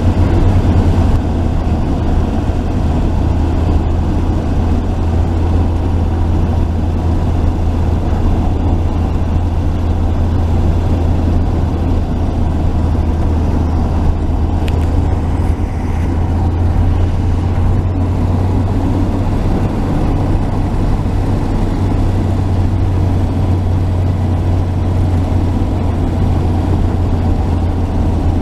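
1949 Chevy truck driving along, its warmed-up engine running smoothly with a steady low hum and road noise.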